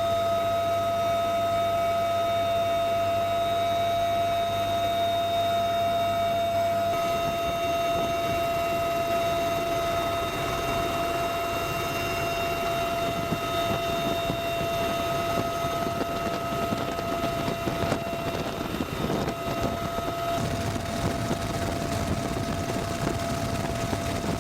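Turbine aircraft engine running with a steady high whine over a rushing noise; the sound changes abruptly about 7 seconds in and again near 20 seconds.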